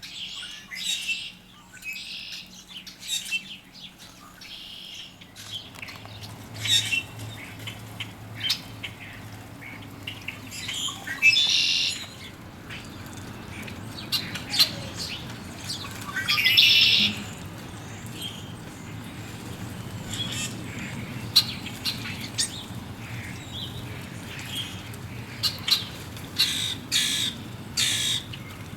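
Mixed backyard birds at a feeder and bird bath calling, grackles, starlings and red-winged blackbirds among them: many short calls one after another, with a few louder ones about halfway. A low steady background rumble comes in a few seconds in.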